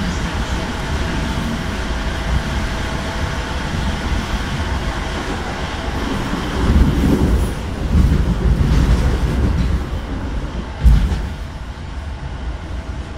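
Regional passenger train running along the track, heard from inside the carriage: a steady rumble of wheels on rail with a faint steady whine, growing louder for a few seconds in the middle. One sharp knock comes about eleven seconds in, and the rumble eases off near the end.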